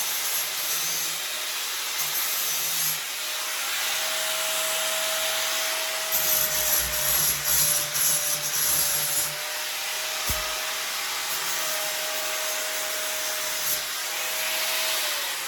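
Grinder fitted with a flap wheel sanding down metal on a pit bike frame: a steady motor whine under a rough rubbing hiss, harsher for a few seconds in the middle. Near the end the whine falls in pitch as the grinder is switched off and spins down.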